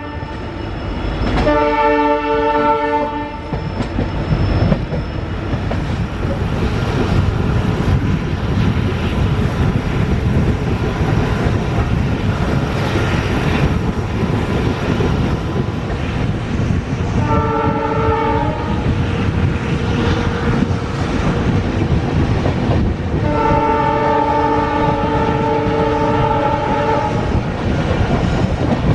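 A train running at speed with a steady rumble of wheels on the track, while a locomotive's chord horn sounds three times: briefly about two seconds in, briefly again a little past the middle, and in a longer blast of about four seconds near the end.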